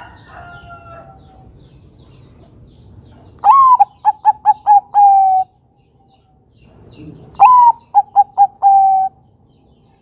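Zebra dove (perkutut) cooing: two phrases, each opening with a rising-then-falling note followed by a quick run of short notes and a longer closing note.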